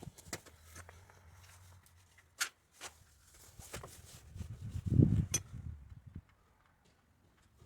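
Scattered clicks and knocks from repair work on an electric forklift, with a louder low thud about five seconds in.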